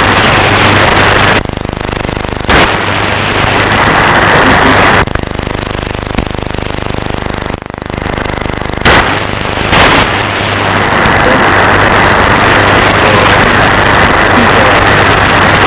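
Shortwave receiver audio from an SDRplay RSP1 full of loud buzzing static: impulse interference from mains-powered household appliances. The static falls to a quieter hiss for a few seconds, twice, with brief loud bursts in between, as the wide-band noise blanker is switched in and out, before coming back at full strength.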